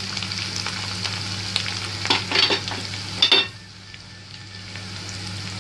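Chopped garlic, green chillies and coriander sizzling in hot oil in a frying pan, with a few sharp strokes of a spatula stirring in the pan. About three and a half seconds in, the sizzle suddenly drops much quieter as the gas is turned down, and a softer frying hiss carries on.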